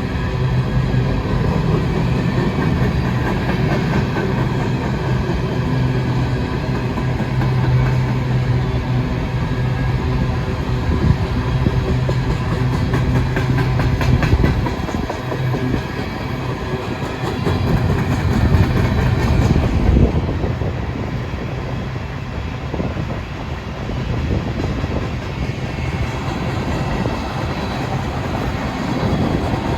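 Freight train rolling past: the low steady drone of diesel locomotive engines, with the rumble of wheels on the rails. The engine drone eases off about two-thirds of the way through, leaving mostly rolling rumble.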